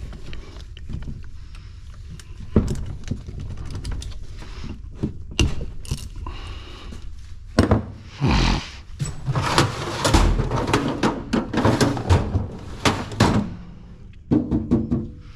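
Hand tools and metal parts of a pressure washer pump being handled: scattered knocks, clicks and thunks, with a busier run of rattling about halfway through.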